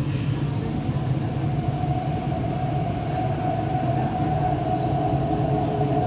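MTR East Rail Line R-Train electric multiple unit running on the line, a steady low rumble with a steady motor whine over it.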